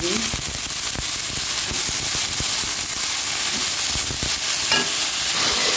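Vegetables sizzling in hot oil in a stainless steel wok as fresh spinach is stirred in, with a steady hiss and a spatula scraping and clicking against the pan now and then.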